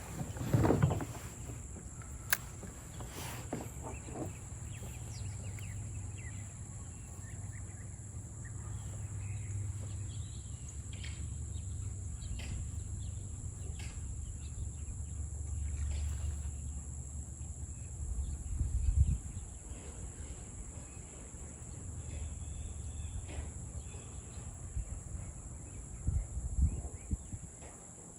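Outdoor ambience from a fishing kayak on the water: a steady high drone and a low rumble, with scattered small clicks and knocks of gear handled in the kayak, the loudest knocks near the start, about 19 seconds in and a couple near the end.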